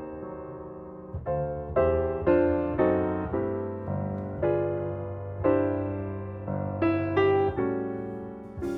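Background music: piano chords struck and left to ring, a new chord about every half second to a second, over a sustained bass.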